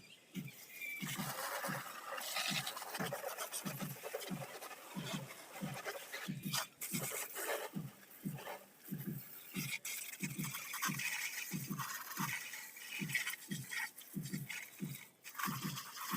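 Scrubbing a motor scooter's bodywork by hand, a steady scraping, brushing sound, over a low thud that repeats about twice a second.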